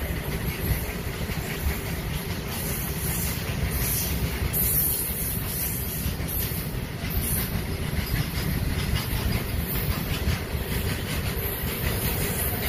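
Goods train of covered open freight wagons rolling past on the next track: a steady low rumble of wheels on rail.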